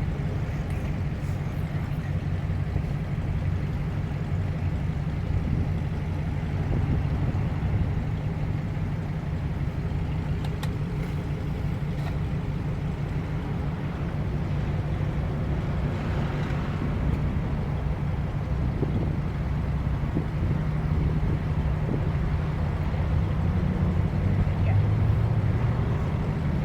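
A motor vehicle running, a steady low hum that holds even throughout.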